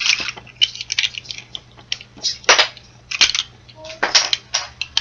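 Plastic LEGO Duplo pieces clicking and knocking as they are handled and snapped together, a rapid irregular series of sharp clicks.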